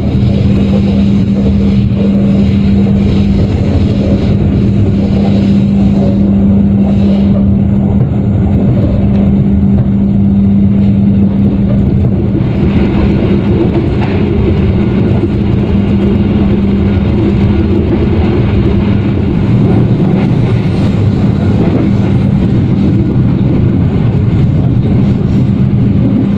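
Passenger train running along the track, heard from inside the coach: a steady rumble of wheels on rails with a constant hum under it.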